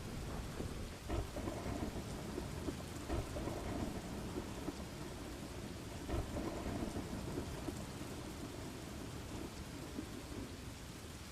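Steady rain with thunder rumbling low underneath, swelling a little louder now and then: a thunderstorm ambience track.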